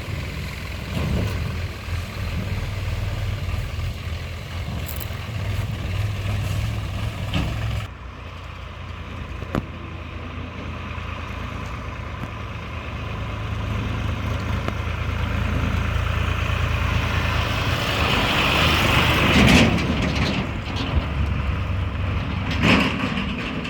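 Tractor's diesel engine running steadily while pulling a fully loaded mud trolley; it grows louder in the second half.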